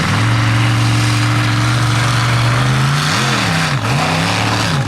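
Slingshot monster truck's methanol-fuelled 540 Merlin big-block V8 at full throttle, held at steady high revs, then dropping and climbing again in a few quick swings from about three seconds in as the throttle comes off and back on.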